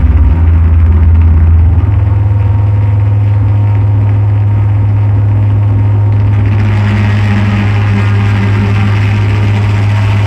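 Loud electronic drone noise: a heavy, steady low hum that shifts to a slightly higher pitch about two seconds in, with a harsh hiss swelling over it about six and a half seconds in.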